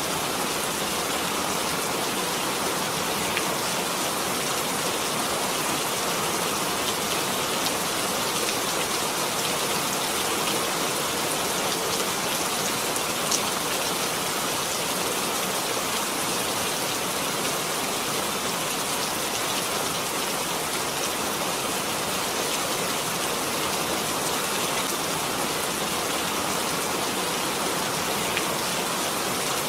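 Steady rainfall pattering on surfaces, an even hiss with a few distinct drop ticks.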